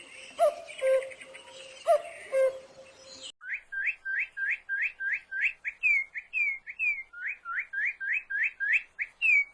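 Two animal-sound clips back to back: first, paired calls repeating about every second and a half over a steady hiss; then, after a sudden cut about three seconds in, a bird singing a fast run of short rising whistled notes, about three a second.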